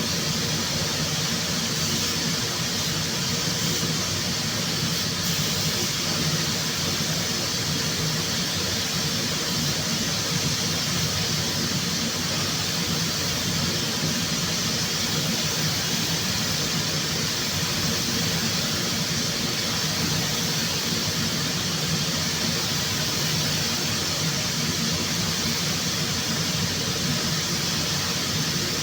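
A steady hiss of rushing air over a low hum, unbroken throughout, typical of paint-shop air equipment running during a car respray.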